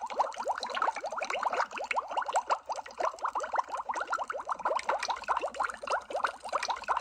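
Underwater bubbling: a dense, continuous stream of bubbles, each a short rising blip, many per second.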